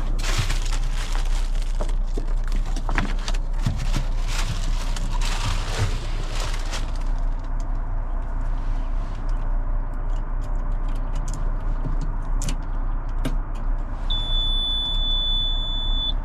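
An engine idling steadily, with clattering and handling noises in the first several seconds. About two seconds before the end a high, steady electronic warning buzzer sounds for about two seconds, typical of a machine's key being switched on before starting.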